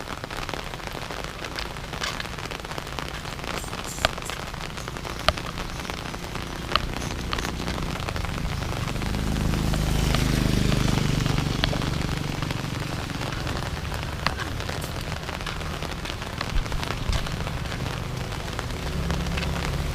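Steady rain falling, with individual drops landing in sharp, loud ticks every second or so. A low hum swells and fades around the middle.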